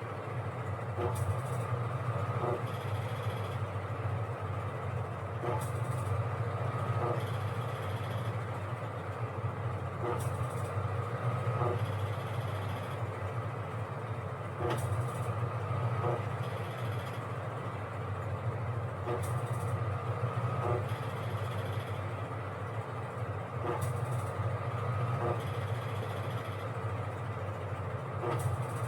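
Washing machine running: a steady motor hum with a light click or knock repeating about every second and a half as the drum turns.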